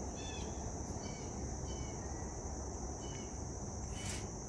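A steady high-pitched insect drone, with a few short bird chirps scattered through it over a low background rumble.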